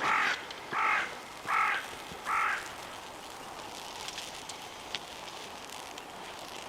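A crow cawing four times in steady succession, a little under a second apart.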